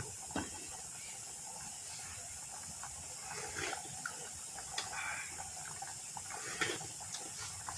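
Steady low hiss with scattered soft clicks and short scraping sounds of kitchen utensils being handled, mostly in the second half, while a simmering dish is being tasted.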